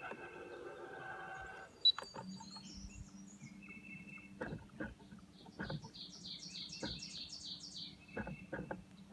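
Birds chirping and singing in quick repeated phrases, over a steady low hum that starts about two seconds in. Scattered light clicks and one sharp knock just before the hum begins.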